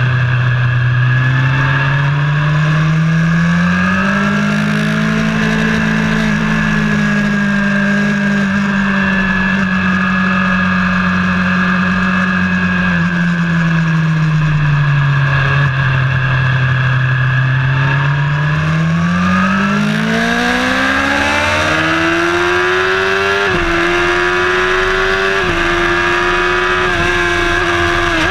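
Vehicle engine heard onboard during a track lap: the revs climb about three seconds in and hold, fall back over several seconds in the middle, then climb again, with a few quick upshifts near the end, each a brief dip in pitch. A steady high whine runs underneath.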